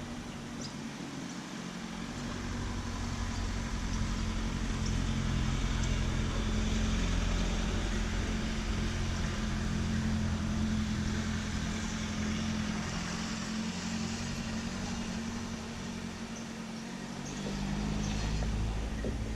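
A motor vehicle's engine passing by, growing louder, holding for several seconds and fading, then a second swell of engine sound near the end.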